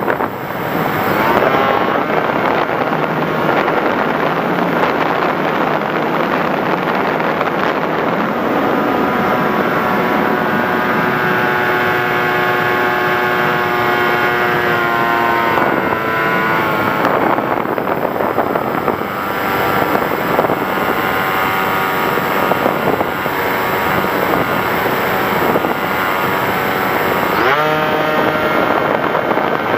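Radio-controlled model aircraft's motor and propeller running in flight, its whine sliding up and down with the throttle, sharply a little past halfway and again near the end, over steady wind rush on the microphone.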